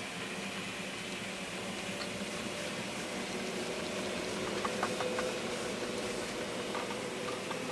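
N-scale model locomotive running on its track: a steady small-motor hum and rolling noise, with a few light clicks in the second half.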